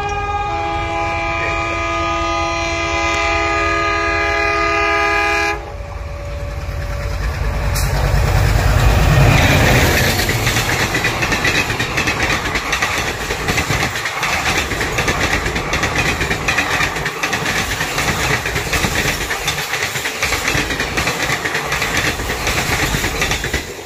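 Indian Railways train horn sounding one long chord of several tones that cuts off after about five seconds, then a passenger train passing close at speed, loudest about nine seconds in as the head end goes by, followed by the steady rush and rattle of the coaches.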